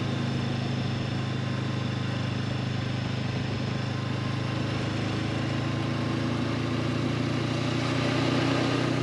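Honda CB500X's parallel-twin engine running steadily under way, with a steady low engine note that gets a little louder near the end.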